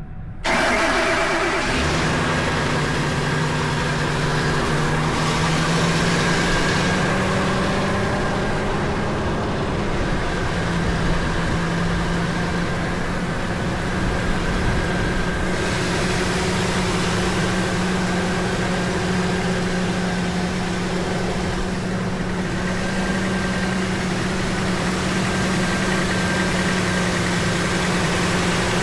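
A 2008 Ford F-250's 5.4-litre Triton V8 starts with the key about half a second in, then runs at a steady idle. Its idle speed rises for the first several seconds and settles back about ten seconds in.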